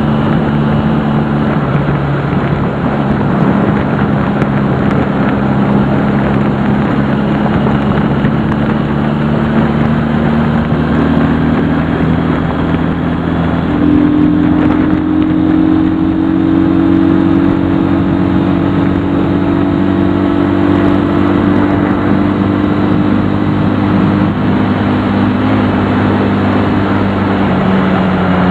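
Honda CD175 motorcycle's parallel-twin engine running steadily on the move over a constant rushing noise. Its pitch climbs slowly through the first half, steps up about halfway, then holds roughly level.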